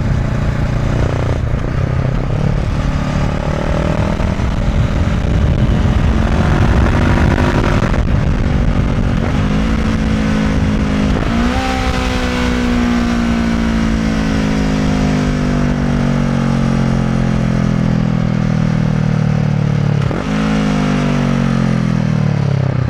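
Honda CB500F's parallel-twin engine through an SC Project Conic titanium slip-on exhaust, accelerating up through the gears with short breaks at each shift. From about halfway it rolls off, the pitch falling steadily under engine braking, with a downshift near the end. Wind noise on the microphone.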